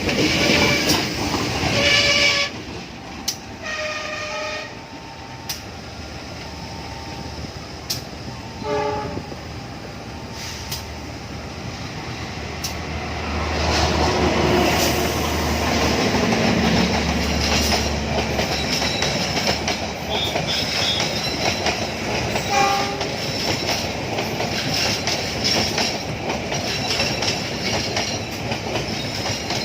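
Train horn sounding in blasts near the start, then a train passing close by, rumbling, with its wheels clattering over the rail joints.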